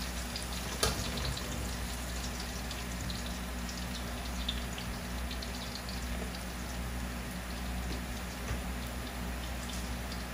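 Minced garlic and onion sizzling in oil in a steel wok, a light scattered crackle over a steady low hum. There is one sharp click about a second in.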